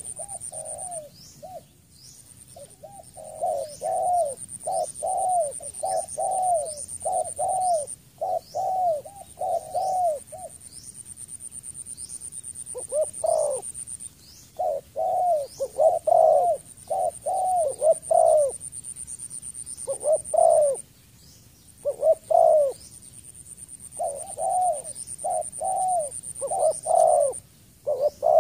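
Spotted dove cooing: short low coos repeated about two a second in runs of several seconds, broken by pauses. A steady high-pitched whine with a few brief breaks and faint short rising chirps run behind it.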